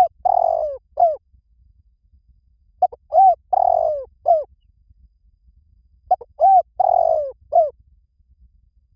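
Spotted dove cooing: three similar phrases about three seconds apart, each a few short arched coos around one longer falling coo.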